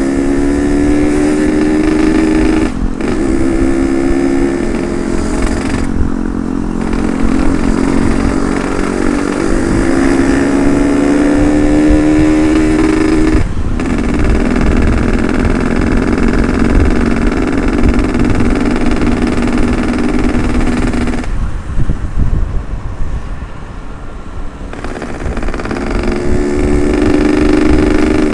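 Yamaha RX-King 135's single-cylinder two-stroke engine, ported, accelerating hard. Its pitch climbs through the gears, with brief breaks at the shifts about 3, 6 and 13 seconds in. It then holds speed, eases off the throttle for a few seconds around 21 s, and picks up again near the end.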